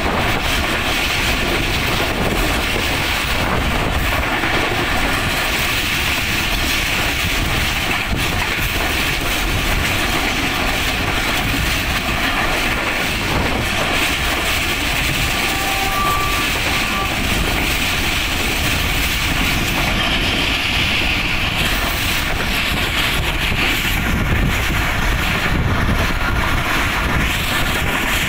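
Passenger train coach running at speed, heard from an open door or window: steady rumble of wheels on the rails mixed with rushing air.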